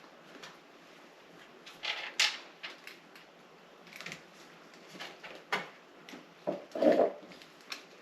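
Scattered clicks, taps and knocks of hands working the plastic quick-connect fittings and C-clips on a refrigerator water inlet valve, with a sharp click about two seconds in and a duller, louder knock near the end.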